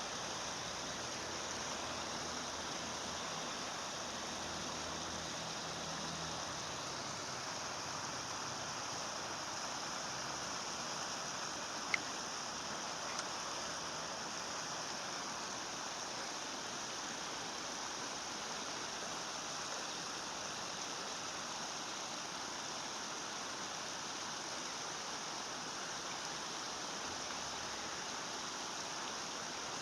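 Steady rush of flowing stream water, with two short clicks about a second apart near the middle.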